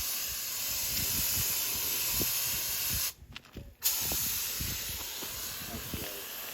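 Pink engine paint hissing steadily out of a spray nozzle onto an engine block, cutting off sharply for most of a second about three seconds in before the spraying resumes.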